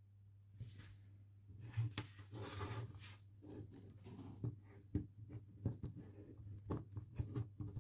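Small plastic toy parts being handled: scattered light clicks, taps and short rustles at irregular intervals, over a faint steady hum.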